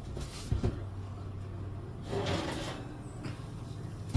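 Kitchen handling sounds: two short knocks about half a second in and a brief scraping slide about two seconds in, over a steady low hum.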